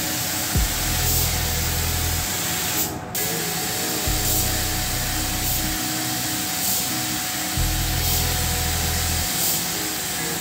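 Compressed-air paint spray gun hissing steadily while spraying clear coat, cutting out briefly about three seconds in as the trigger is let go, then resuming.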